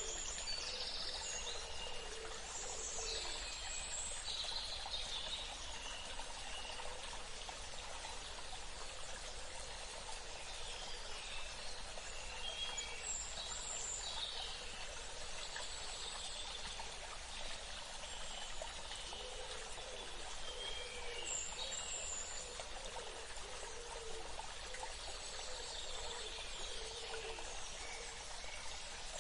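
Steady rush of running water, like a small stream, with scattered short bird chirps and calls over it.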